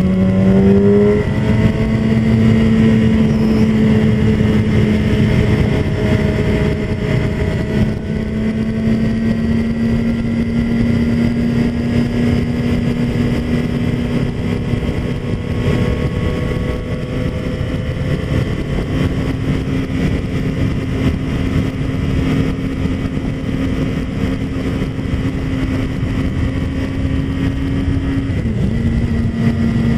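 A 2007 Yamaha YZF-R6's 600cc inline-four engine cruising at steady revs at road speed, heard from the rider's helmet with wind rush over it. The engine note climbs a little about two-thirds of the way through and dips briefly near the end.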